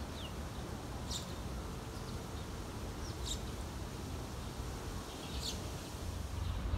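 A few short, high bird chirps, roughly every two seconds, over a steady low background rumble of outdoor ambience.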